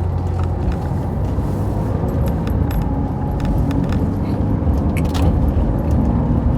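Car driving, heard from inside the cabin: a steady low road and engine rumble with scattered light clicks and rattles.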